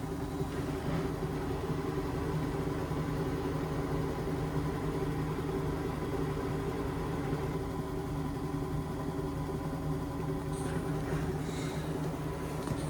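Indesit washing machine near the end of its Express wash cycle, its motor spinning the drum at a steady speed with an even, steady hum.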